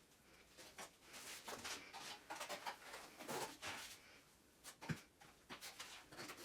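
Faint, irregular scraping and swishing in a small room, with a single sharp knock about five seconds in.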